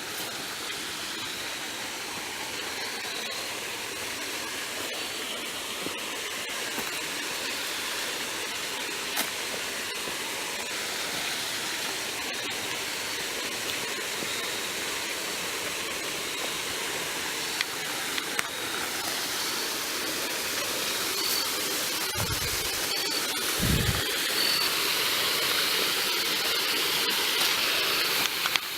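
A small creek waterfall: water running with a steady rushing hiss that grows slightly louder toward the end. Faint crickets chirp high above it, and two brief low thumps come about two-thirds of the way through.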